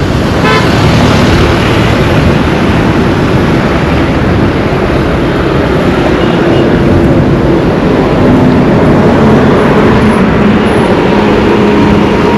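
Loud, steady road-vehicle noise, with an engine hum that drifts in pitch in the second half.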